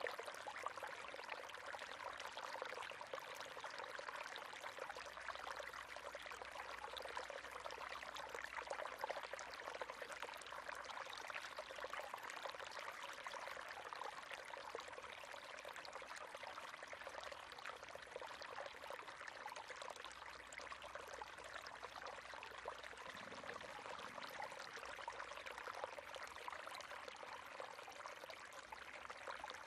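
River water flowing over stones, a steady babbling rush.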